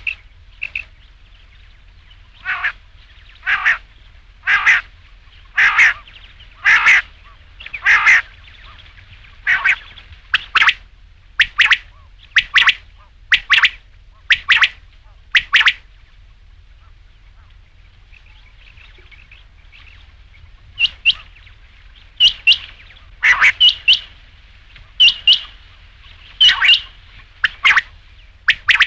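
Quail calling: short, sharp call notes repeated about once a second, then after a pause of a few seconds about halfway through, quicker notes in pairs. A recorded quail call of the kind played as a hunting lure.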